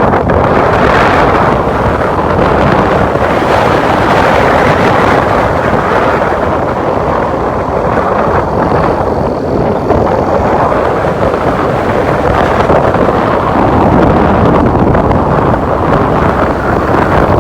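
Loud, steady wind rush buffeting the microphone of a motorcycle-mounted camera at road speed, with the motorcycle and tyre noise blended in underneath.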